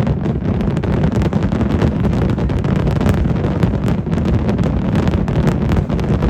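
Wind buffeting the microphone: a steady low rumble with irregular crackling over it.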